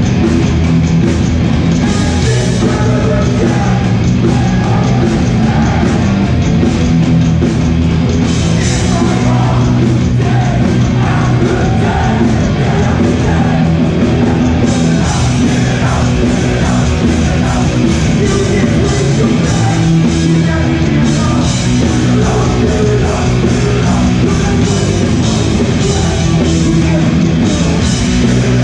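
Hardcore punk band playing live and loud, with shouted vocals over the band.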